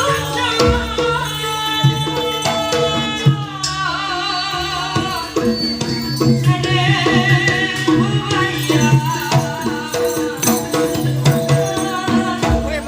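Live jaranan-style folk music for a rampak barong performance. Hand drums beat frequent strokes over sustained pitched tones, and a wavering high melody line runs on top.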